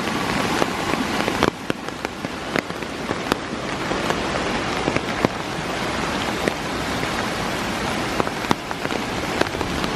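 Heavy rain pouring down steadily, with many sharp ticks from individual drops striking.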